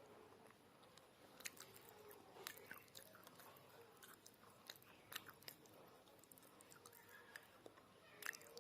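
Close-miked chewing and biting of baked clay pot pieces: quiet, irregular sharp crunches.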